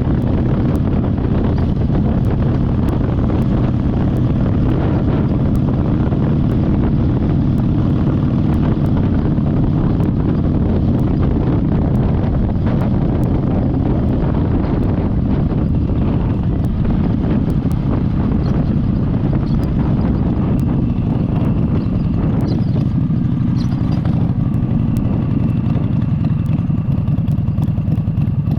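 Motorcycle running on the move, with a steady rush of wind over the microphone in the Ray-Ban Meta glasses. The wind rush eases somewhat near the end.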